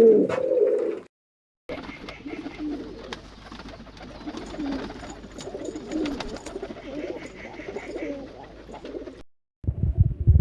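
Domestic pigeons cooing: low, soft, rolling calls that repeat throughout. The calls are loudest at the start and again near the end, and the sound drops out to silence twice, briefly.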